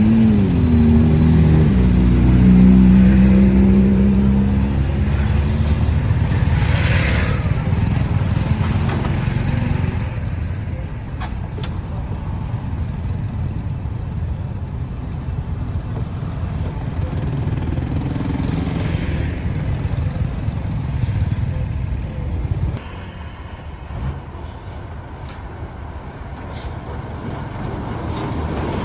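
Road traffic: vehicle engines and tyre noise. In the first few seconds one engine's note falls and then holds steady, and the overall noise drops about 23 seconds in.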